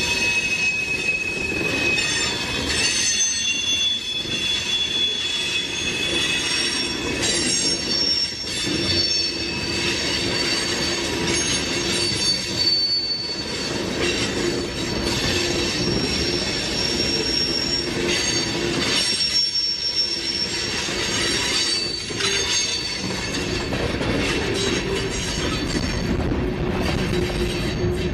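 Loaded covered hopper cars of a freight train rolling past close by, a steady rumble and rattle of steel wheels on rail with several high squealing tones that come and go and shift in pitch.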